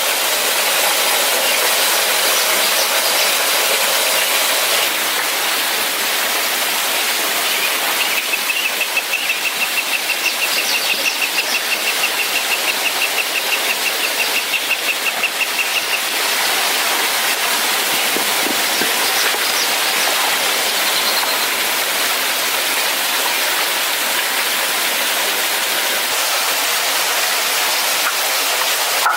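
Steady rushing of a waterfall, an even loud hiss of falling water. From about eight seconds in, a high, rapidly pulsing call runs for about eight seconds over it.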